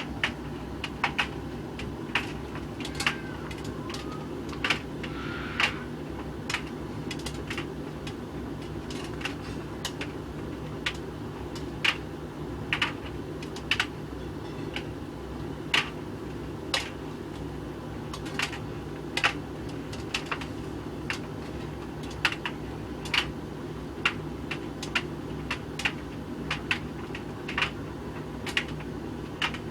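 Hoover VHV680C tumble dryer running with a load of coloured clothes: a steady motor and drum hum, with irregular sharp clicks and taps of buttons and zips hitting the drum as the load tumbles.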